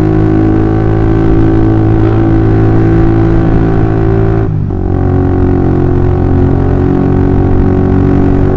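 Honda CB150R's overbored single-cylinder engine running at low to mid revs through a DOS Muffler full-system aftermarket exhaust with a long 30 cm silencer: a steady, deep exhaust drone. About four and a half seconds in, the note drops and briefly dips, then carries on steadily.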